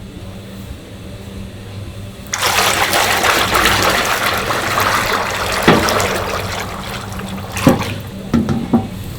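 Water gushing from a tap or hose. It starts suddenly a couple of seconds in and tapers off, followed by a few short knocks.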